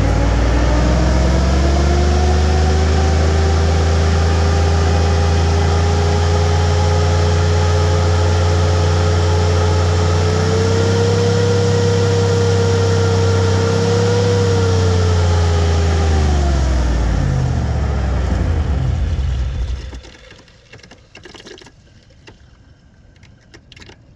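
GM 4L60E automatic transmission making a steady gurgling noise with the engine running, a sign that it is low on fluid. The sound runs with a steady whining tone, then winds down and stops about twenty seconds in.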